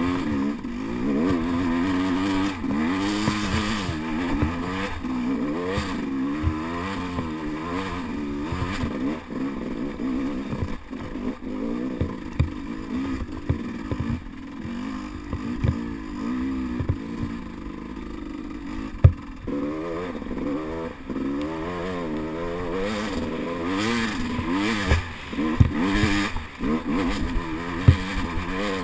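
Off-road enduro motorcycle engine on a rough trail, its revs rising and falling again and again with the throttle. Scattered sharp knocks and clatter from the bike over rocks, several close together near the end.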